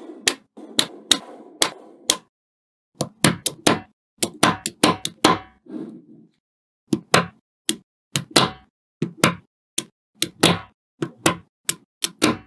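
Small magnetic balls snapping onto one another with sharp clicks, irregular and often in quick runs of two or three, with faint rolling and shuffling of the balls between them.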